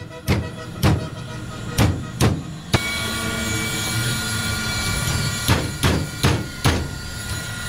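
Hammer blows on a steel plate, about ten sharp strikes in two irregular groups with a pause of a few seconds between them, as a motorcycle engine base plate is shaped.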